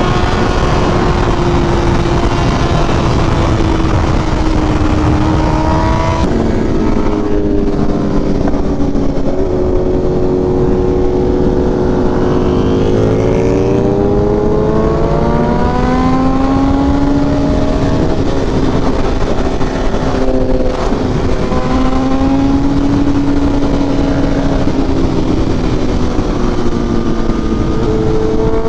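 Kawasaki Ninja H2's supercharged inline-four engine running under way, its pitch climbing and dropping as the rider changes speed. Steady wind rush over the microphone underneath.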